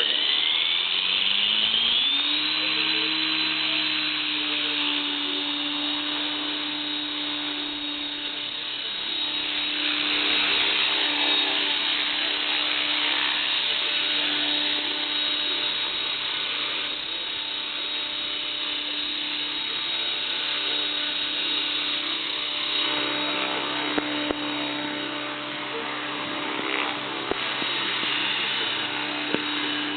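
Align T-REX 600 ESP electric RC helicopter spooling up, its rotor and motor whine rising in pitch over the first couple of seconds, then holding a steady pitch while it hovers.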